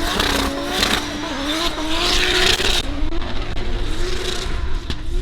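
Drift car engine running at high revs, its pitch wavering up and down as the throttle is worked through a slide. Bursts of hiss come over the first three seconds, then ease off.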